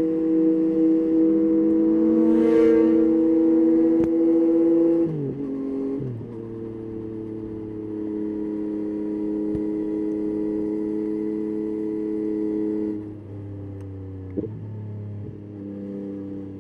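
Yamaha Tracer 9's 890 cc inline three-cylinder engine running under way at steady revs, its pitch falling about five seconds in as the throttle comes off, then holding steady. Near the end the revs drop again, with one short throttle blip.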